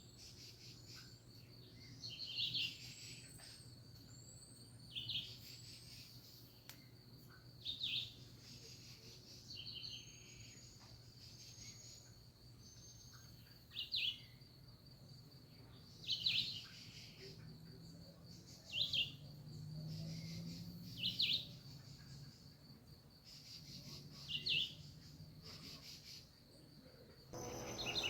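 Songbirds calling in the countryside: one bird repeats a short sharp call every two to three seconds, while thin rising whistles from another bird come in the first half. A steady high insect trill runs underneath.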